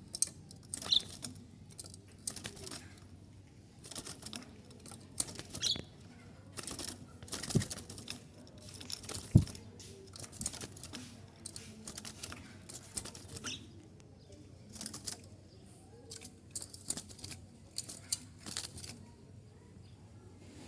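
A small bird fluttering and flapping its wings in short, irregular bursts, with a few brief high chirps. Two sharp knocks come near the middle.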